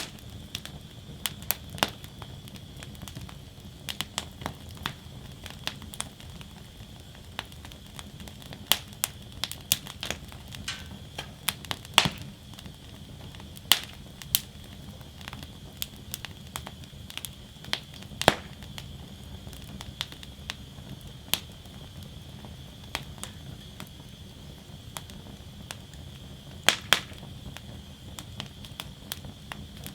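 Wood fire crackling in a fire basket: irregular sharp pops and snaps over a steady hiss and low rumble of the flames, with a few louder snaps scattered through.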